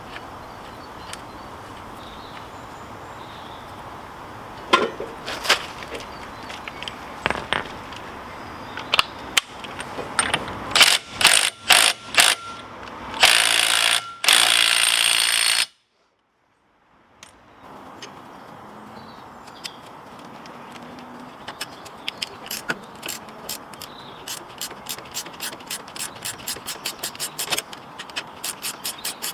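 Metal hand tools at work: scattered sharp clicks and knocks, then a loud harsh noise for about two seconds that cuts off abruptly. After a short gap, a ratchet clicks steadily, with the clicks coming faster toward the end.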